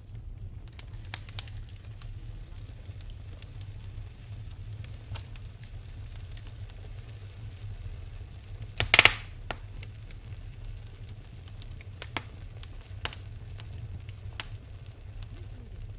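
Wood fire in a fireplace crackling, with scattered sharp pops and one loud snap about nine seconds in, over a steady low rumble.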